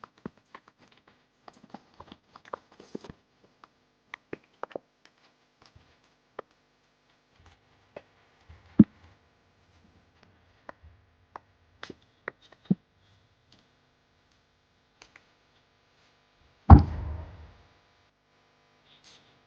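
Scattered light clicks, taps and knocks of objects being handled, with one sharp knock about nine seconds in and a heavier thud with a short rushing tail near the end.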